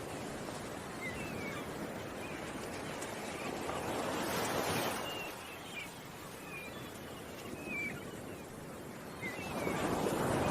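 Ocean waves washing in, the surf swelling twice, with small birds chirping in short, scattered calls over it.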